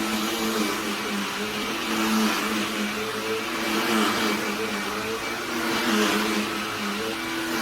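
Cordless handheld vacuum cleaner running steadily, its motor whine wavering slightly in pitch and swelling a little every couple of seconds.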